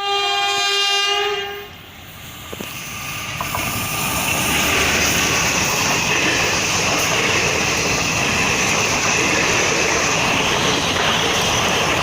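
WAP4 electric locomotive's horn sounds one steady blast that cuts off after about a second and a half. Then the passing express train grows louder over a couple of seconds and runs on as a steady rush of wheels and coaches on the rails.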